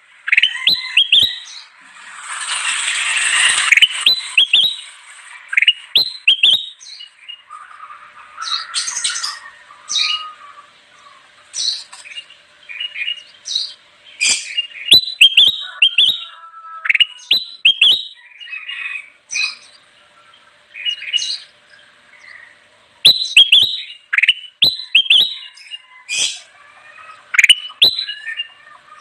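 Kutilang emas, a bulbul, singing in quick bursts of short chirping and whistled phrases that repeat throughout, with a loud harsh rasping call about two seconds in.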